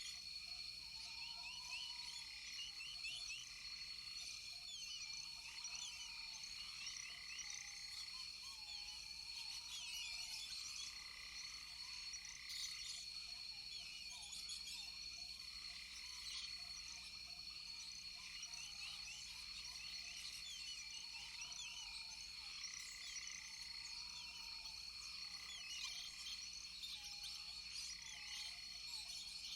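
Rainforest chorus of many frogs calling, with short repeated chirps and lower arching calls every second or two, over a steady high insect drone.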